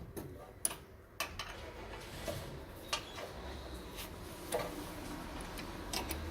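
Scattered sharp clicks and taps, about five spaced irregularly over a few seconds, from hand work on a pellet stove's auger and gear-motor assembly.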